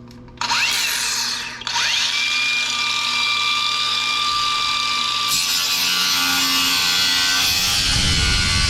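Angle grinder with a cut-off wheel cutting through metal. It spins up with a rising whine about half a second in, dips briefly and spins up again. It then runs steadily with a grinding hiss that grows heavier about five seconds in.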